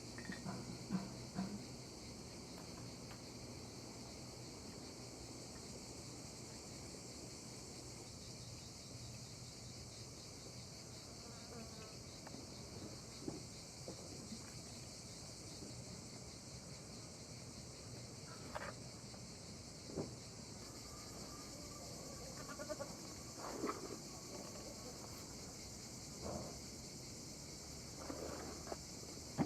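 Steady high-pitched chirring of crickets and other insects, with a few scattered short knocks and clicks and a couple of faint brief calls.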